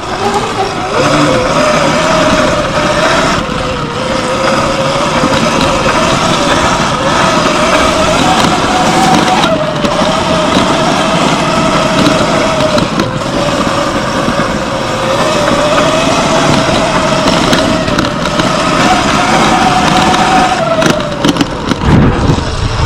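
Sur-Ron X Light Bee electric dirt bike riding on sandy trails: the motor and drivetrain whine rises and falls with speed over a steady rushing noise. Near the end there is a brief deeper surge.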